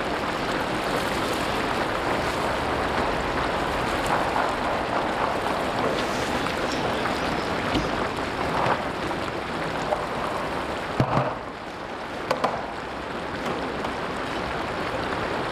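Carrot strips and chickpeas sizzling in hot oil in a large cast-iron kazan, a steady hiss: the zirvak stage of Uzbek pilaf. A few sharp metal knocks of the skimmer against the pot come about two-thirds of the way through.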